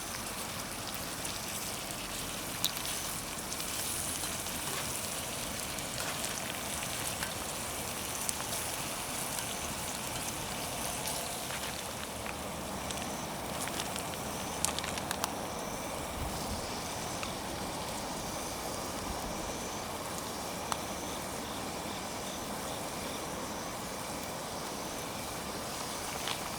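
Wood campfire burning under a cooking pot or skillet: a steady hiss with occasional sharp pops.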